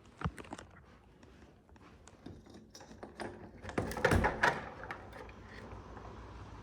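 A series of scattered clicks and knocks, with a louder cluster of thuds about four seconds in.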